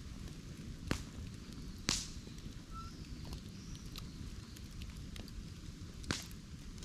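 Bamboo burning in an open fire: a steady low crackle with three sharp pops, about one, two and six seconds in. The pop near two seconds is the loudest and trails off in a short hiss.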